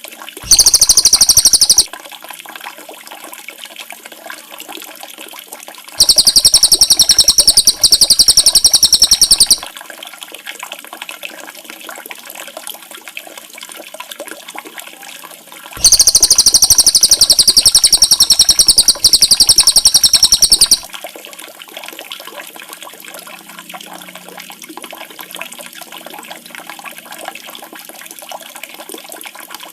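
A songbird giving a very fast, high, buzzy trill in three bouts, the last and longest about five seconds, over a steady sound of running water.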